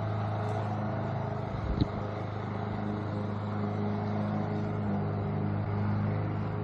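Steady low hum of a motor or engine running without change, with a single short knock about two seconds in.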